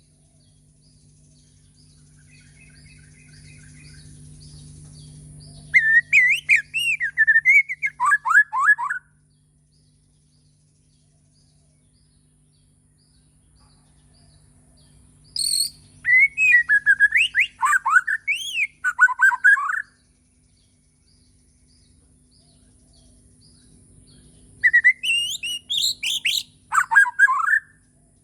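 White-rumped shama (Bornean murai batu) singing: three bouts of loud, fast, varied whistled phrases, each a few seconds long, with pauses between them. A steady low hum and faint small chirps run underneath.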